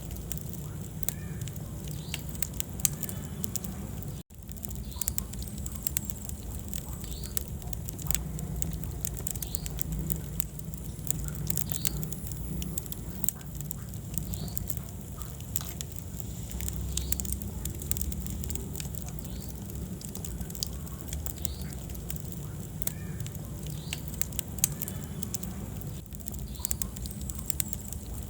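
Wood fire burning in a fireplace: frequent small sharp crackles and pops over a low, steady rumble of flame. The sound cuts out for an instant about four seconds in.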